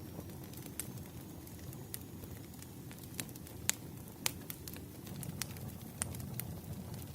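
Wood fire crackling: a steady low rush of burning logs with scattered sharp pops and snaps, the loudest a little under four seconds in and again just after.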